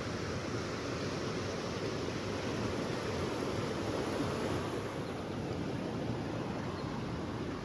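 River water rushing over rocks: a steady, even wash of noise.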